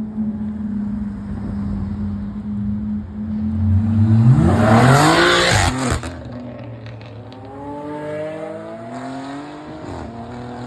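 Car engine idling, then a car accelerating hard with rising revs, loudest about four to six seconds in and stopping abruptly; a second, quieter car then revs up with rising pitch.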